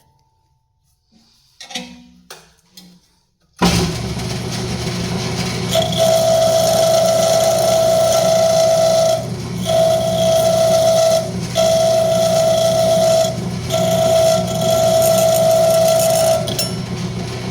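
Wood lathe running with a parting tool cutting into spinning rosewood. The lathe's steady hum comes in abruptly about three and a half seconds in, and the cut sings a steady high-pitched tone in four stretches with short breaks as the tool is eased off and pushed in again.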